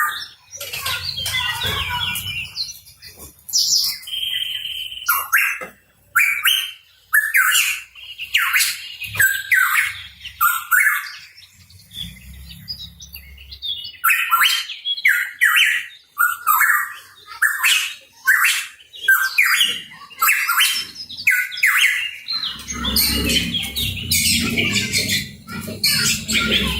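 Pitohui calling in a rapid string of short, harsh chirps and squawks, one after another with only brief pauses. A low rumble sits underneath at times, longest in the last few seconds.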